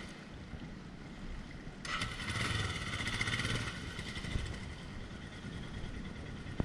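Off-road motorcycle engine running, rising to a louder rev for about two seconds, starting roughly two seconds in, then settling back.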